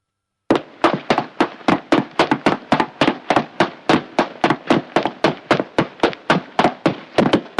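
Rapid chopping on a cutting board, sharp strikes about three to four a second.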